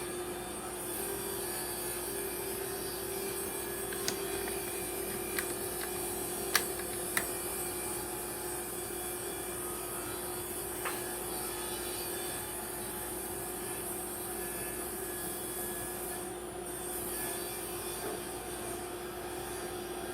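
Steady hum of a running workshop machine with one held tone and a high hiss. Several sharp clicks and knocks, like wood or clamps being handled, come between about four and eleven seconds in.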